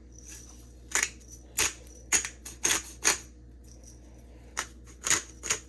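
Pepper mill grinding peppercorns onto chicken: short crunchy grinds, a run of five, then a pause, then three more near the end.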